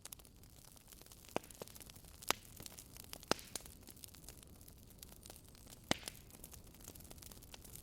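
Wood fire crackling in a fireplace: scattered small ticks and four sharp pops over a faint steady hiss.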